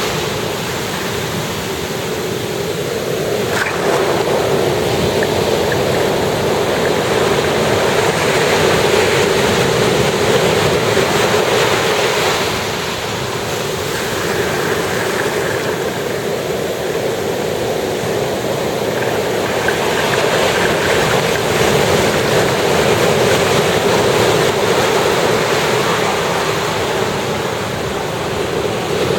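Ocean surf breaking and washing up a sandy beach: a steady rush of waves that swells and eases as each one comes in.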